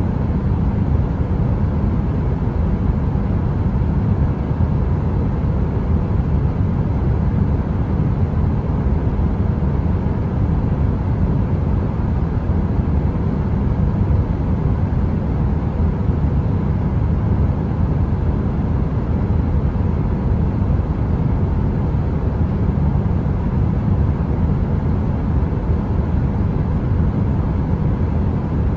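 Heater white noise: a steady, even low rumble that does not change, with no crackles or other separate sounds.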